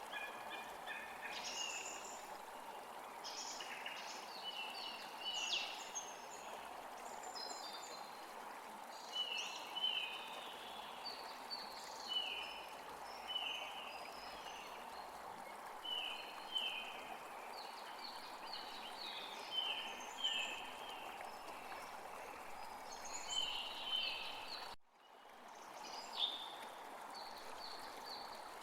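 Small birds chirping in many short, repeated notes over a steady rush of running water. Near the end the sound drops out for a moment, then fades back in.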